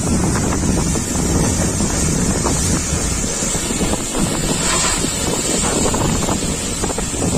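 Pressure washer spraying water: a steady hiss over a low rumble.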